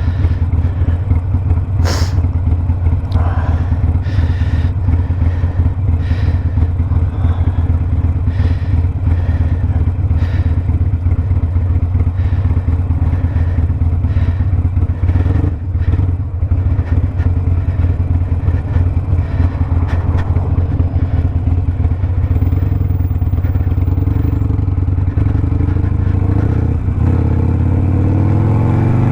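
2019 Harley-Davidson Sportster Iron 1200's V-twin engine running steadily through a Two Brothers 2-into-1 aftermarket exhaust while riding, rising in pitch near the end as the bike accelerates.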